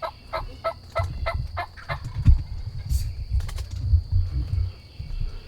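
Wild turkey yelping: a run of evenly spaced notes, about three a second, that stops about two seconds in. Low rumbling and thumps follow.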